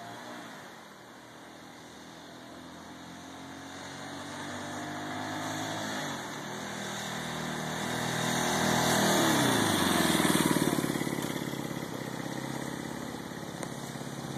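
Honda CB175 K7's small parallel-twin four-stroke engine. Its revs climb over several seconds, with a brief dip about six seconds in, and are loudest around ten seconds in. Then they fall back quickly to a steady idle.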